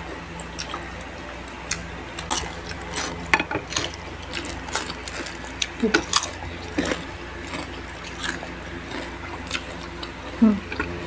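Close-up eating sounds from people chewing and biting crispy fried food and rice: irregular crunches, wet mouth clicks and smacks. Two brief hummed vocal sounds come around six seconds in and near the end.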